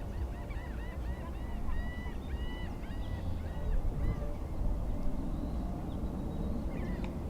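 Birds calling: a quick series of short, arched calls, several a second, that thins out about halfway through, over a steady low rumble.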